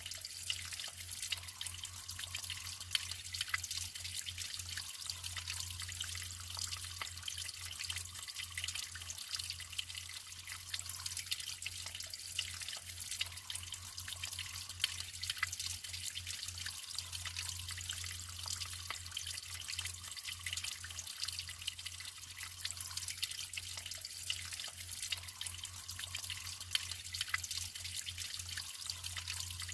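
Naturally flowing water trickling and splashing steadily, a dense patter of small drips and splashes. A low steady hum runs underneath.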